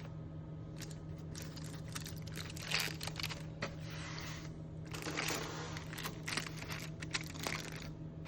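Takeout food packaging being handled and opened: irregular crinkling, rustling and scraping, over a steady low hum.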